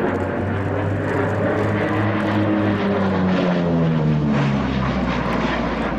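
Lockheed P-38 Lightning's twin Allison V-12 engines as the fighter flies past, the engine note sliding down in pitch about three to five seconds in as it goes by.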